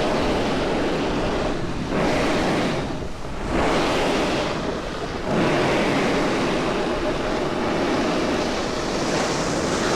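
Steady rushing noise of riding a snowboard down a groomed slope: wind over the microphone and the board sliding on snow. It drops away briefly a few times, near two, three and five seconds in.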